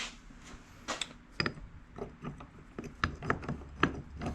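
Metal internal parts of a GM Saginaw power steering pump clicking and knocking against each other in a string of short, irregular clicks as they are fitted and turned by hand during reassembly.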